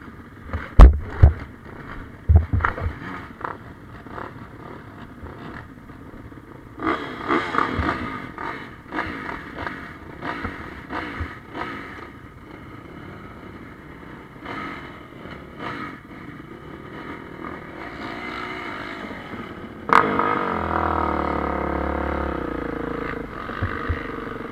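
Motocross bikes' engines revving in repeated rising and falling bursts, with a few heavy knocks in the first few seconds. About 20 seconds in a sharp bang is followed by engines running louder and more steadily.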